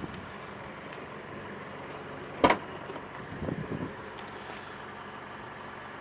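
A single sharp knock about two and a half seconds in, over a steady outdoor background hiss, followed a second later by a few faint softer knocks.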